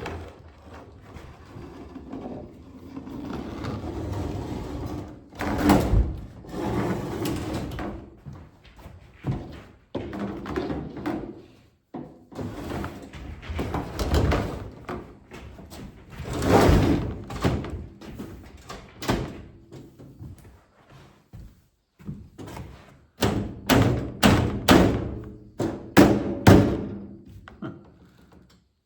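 Clunks, knocks and scraping of a microwave's metal casing and parts being pried, shifted and handled during disassembly, in irregular bursts with several sharp knocks near the end.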